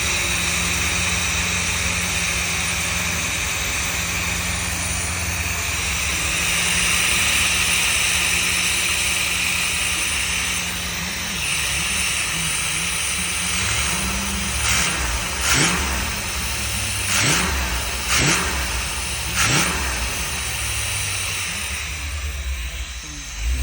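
A 1984 car's engine idling, then revved in about five short throttle blips, each a quick rising sweep, a little past the middle. The engine has just been brought back to life after over a year off the road.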